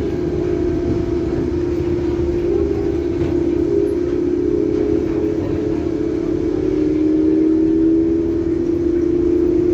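Mitsubishi Crystal Mover LRT car's traction motor whining steadily as the train runs, a cluster of low tones that drift slightly in pitch, with one swelling louder about seven seconds in, over a low rumble. The whine is the odd motor sound of car V35, which the uploader takes for weird.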